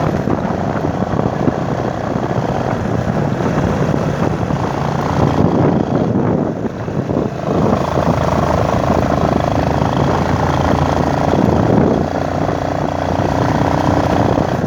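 Motorcycle engine running on the move, with heavy wind noise over the microphone. The engine note shifts a couple of times partway through.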